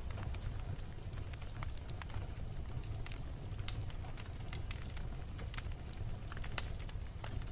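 Wood logs burning in a fireplace: a steady low rumble of the flames with frequent, irregular sharp crackles and pops.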